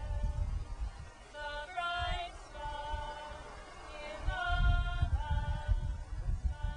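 Several voices singing long held notes together in two phrases, with an irregular low rumble underneath.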